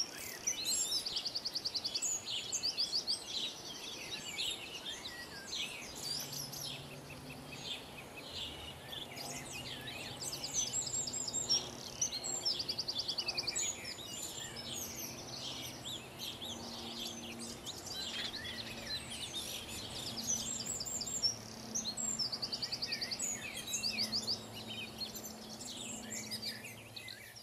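Small songbirds singing and chirping, with fast, repeated trills again and again. From about six seconds in there is a faint low hum underneath.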